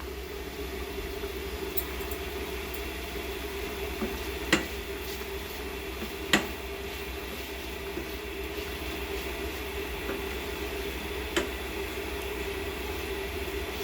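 Kitchen cookware and utensils clinking against each other a few times, with sharp knocks about four and a half, six and eleven seconds in, over a steady hum.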